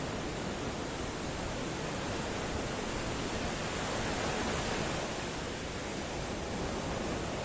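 Ocean surf: a steady, even wash of breaking waves, swelling slightly about halfway through.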